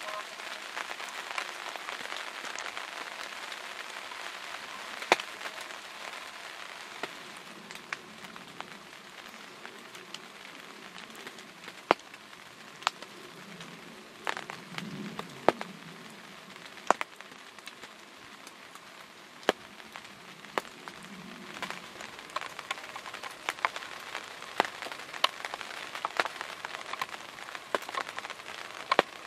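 Rain falling on a hunting ground blind: a steady patter with frequent sharp drip taps scattered through it.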